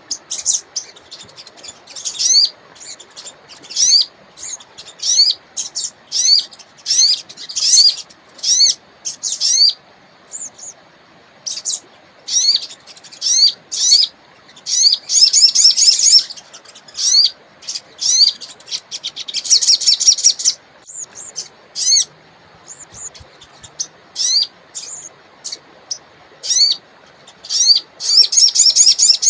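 A sogon songbird calling in quick bursts of short, rising chirps, with a few dense rapid trills, over a faint steady hiss of running water.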